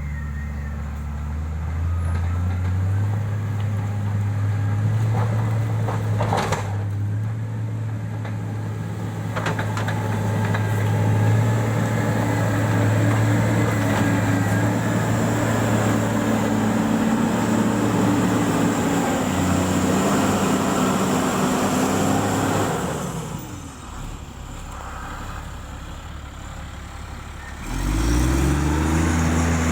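Heavy-equipment diesel engine running steadily under load. It eases off for a few seconds near the end, then revs back up with a rising pitch.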